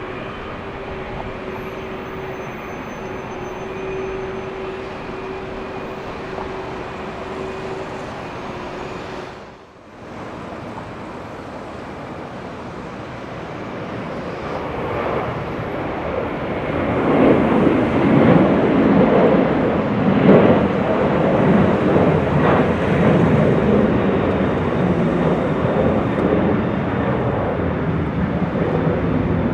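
Jet airliner engines: a steady noise with a held whine for the first nine seconds. After a brief break about ten seconds in, a louder, rough jet engine noise builds from about fourteen seconds in and stays loud.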